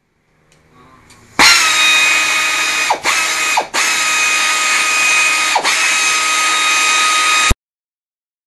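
1/2-inch air ratchet wrench running free, test-run after its anvil kit is fitted: a steady high whine that starts about a second and a half in, dips briefly three times, and cuts off suddenly near the end.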